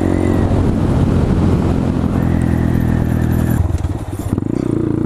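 Motorcycle engine running with wind and road noise; a little before four seconds in the sound briefly drops away, then the engine settles into a steady, even note.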